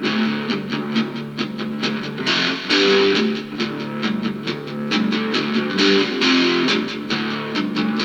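Instrumental intro of a rock song: guitar playing a repeating riff over a steady beat, with no vocals.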